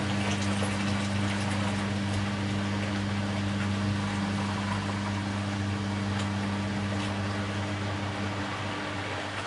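Bosch Maxx WFL 248Y front-loading washing machine running mid-cycle: a steady low hum over a constant rushing noise, with a few faint ticks.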